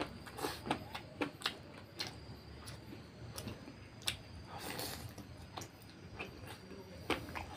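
Close-miked mouth sounds of a person eating fatty pork curry and rice by hand: wet chewing and lip smacks, heard as many short, sharp smacks at an uneven pace.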